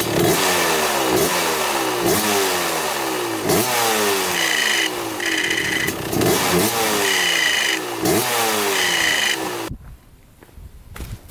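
1995 Kawasaki KX250 two-stroke engine blipped repeatedly, each rev rising sharply and falling back, with a high steady scraping squeal joining in four times while the clutch is pulled in; the owner suspects the pushed-in clutch side cover is rubbing against the clutch. The engine cuts off near the end.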